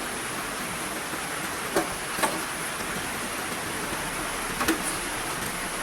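Heavy rain falling in a steady hiss, with three short, sharp taps about two seconds in, just after, and near the end.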